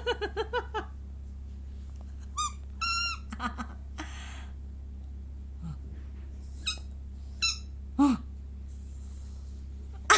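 Squeaky toy ball being squeezed, giving several short, high-pitched squeaks at uneven intervals over a steady low hum.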